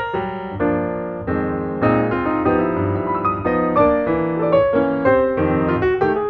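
Background piano music: a gentle melody played on piano.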